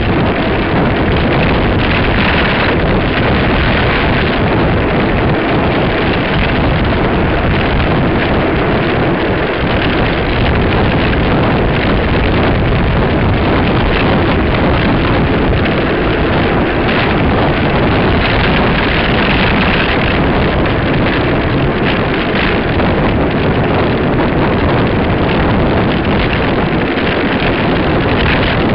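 Steady, loud rushing wind noise buffeting the microphone, as when recording from a moving vehicle.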